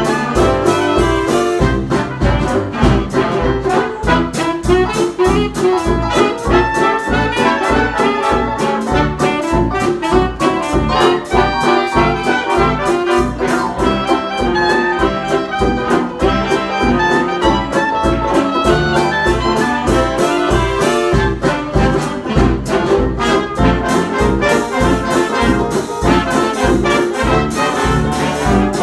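A band playing an instrumental passage of a jazz-era song, with no singing: brass to the fore over a steady beat.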